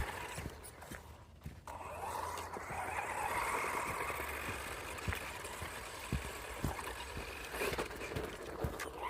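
MJX MEW4 1:16 brushless RC truck driving over forest ground. A faint electric motor whine rises about two seconds in and holds for a few seconds, with the tyres scraping over the ground and scattered small knocks.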